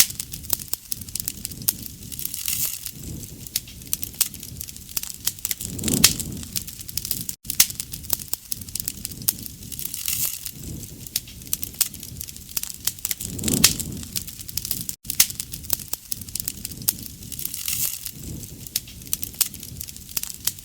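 Campfire crackling and popping, with dense sharp snaps of burning wood and louder swells every few seconds. The sound cuts out for an instant twice.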